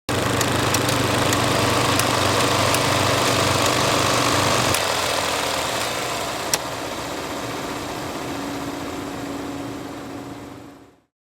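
Film projector mechanism running with a steady whirr and low hum, with scattered sharp clicks. The low hum drops out a little under five seconds in, and the sound then fades away gradually, cutting out shortly before the end.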